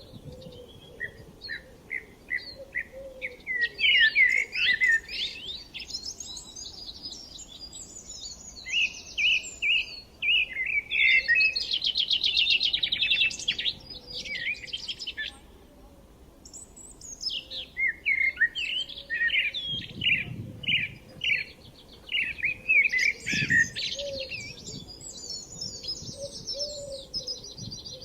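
Songbirds singing and chirping in bursts of rapid, high notes, phrase after phrase with short pauses between.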